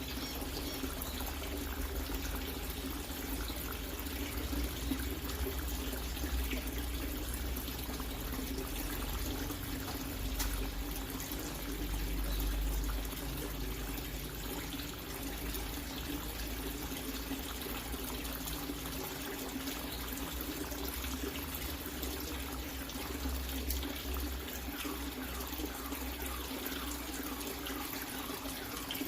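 Water running and splashing steadily for the whole stretch, like a tap or hose pouring into a filling tank.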